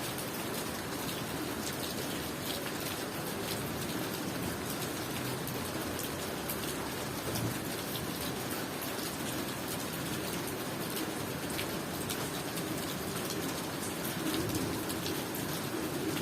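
Steady rain falling on surfaces, a continuous wash with many individual drops ticking through it.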